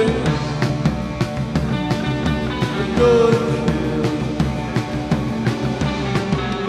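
Live rock band playing loud, noisy rock over a steady drum beat.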